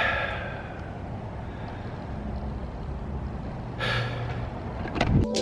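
A man breathing out heavily in a sigh, then again about four seconds in, over a steady low rumble.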